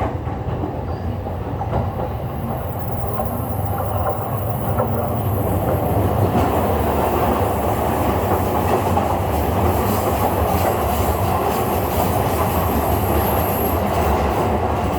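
Running sound of a JR East E231 series electric train heard from on board: steady wheel-on-rail rumble and clatter. A thin, high-pitched tone comes in a few seconds in and fades near the end.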